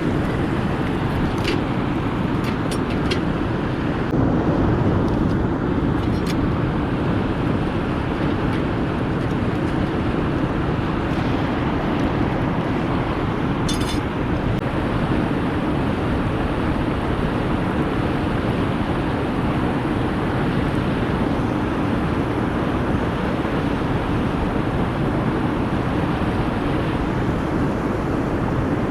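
A wood fire in a fire pit crackling with a few sharp pops, most of them in the first several seconds and one about halfway, over a loud steady rushing noise.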